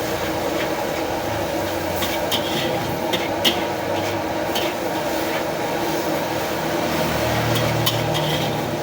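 Steady hum of a street-food stall's cooking setup, with a few sharp metal clinks of utensils on a wok or plates scattered through it.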